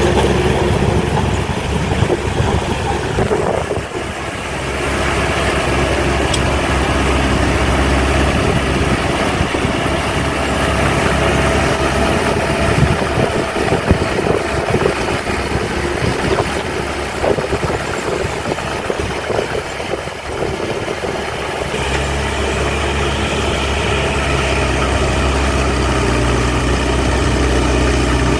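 Diesel engine of heavy earthmoving machinery running with a steady drone, broken by a long stretch of irregular rattling and knocks through the middle before the steady drone returns near the end.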